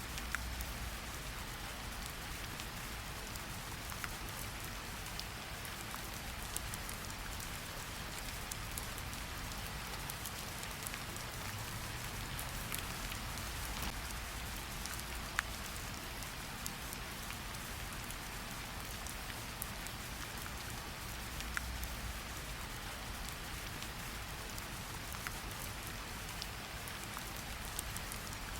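Steady hiss of rain with scattered sharp pops and crackles from a fireplace fire, over a soft low rumble.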